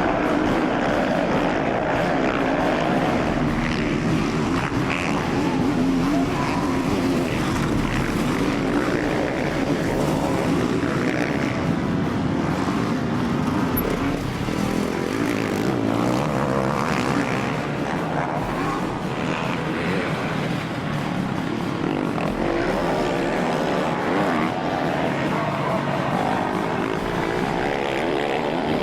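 Several motocross bikes racing, their engines revving up and down as they accelerate and shift, one bike's engine note overlapping another's.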